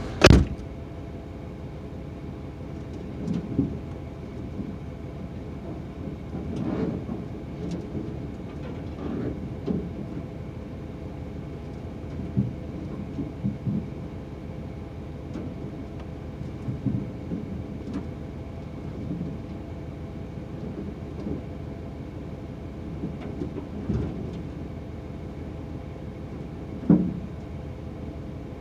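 A door shuts with a sharp knock, then a steady hum with scattered faint thumps and knocks.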